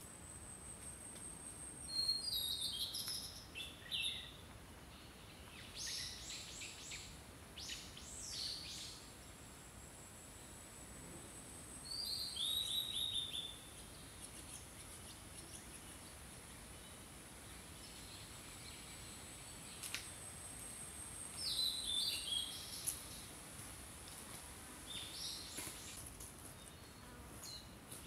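Wild songbirds singing in short chirping phrases every few seconds, one of them a quick falling run of notes. A thin, steady, high-pitched whine runs underneath.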